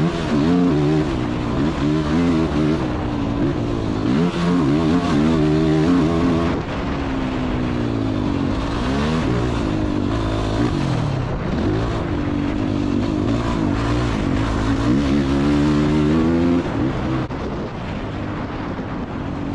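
Motocross dirt bike engine revving up and falling off again and again as it is ridden hard around a track. The pitch climbs and drops every second or two, with a longer drop near the end.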